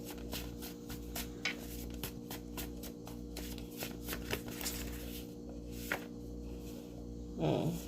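Tarot cards being shuffled and handled, with many irregular light clicks and rustles over a steady low hum. A brief low vocal murmur comes near the end.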